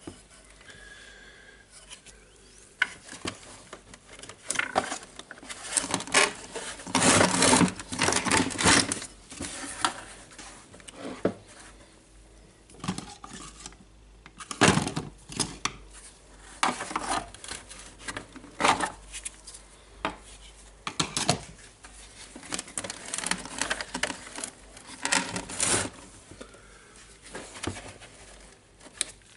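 Irregular clicks, knocks and clatter of hard plastic parts and small hand tools being handled as a DeWalt DC011 site radio is taken apart, coming in bursts with short pauses between.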